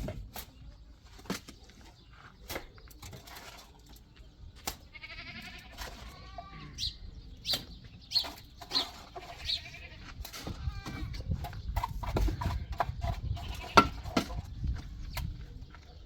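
Livestock bleating several times, with wavering calls around the middle, over scattered knocks and clicks and a low rumble; one sharp knock near the end is the loudest sound.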